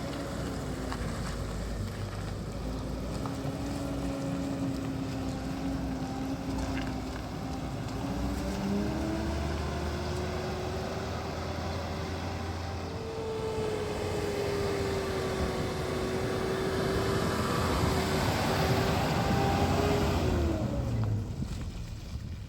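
Car engine running as the vehicle drives along, its pitch shifting up and down, growing louder toward the end, then dropping away shortly before the end.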